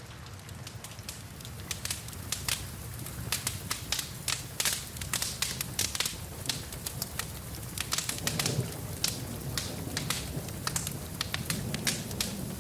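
Wood fire crackling in a fireplace, with dense sharp snaps and pops that grow busier after about two seconds. Underneath is a steady low rumble and the hiss of rain.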